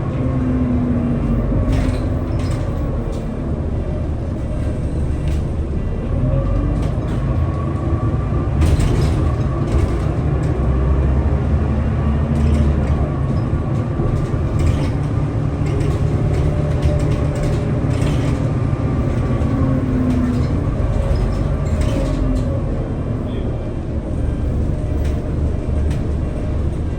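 Scania L94UB city bus under way, its diesel engine drone rising and falling in pitch every few seconds as it accelerates and changes gear, with short rattles and knocks throughout.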